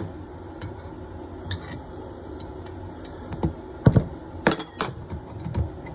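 Metal tools clinking and tapping against a toilet supply valve's fittings: scattered sharp clicks, the loudest two close together about four seconds in.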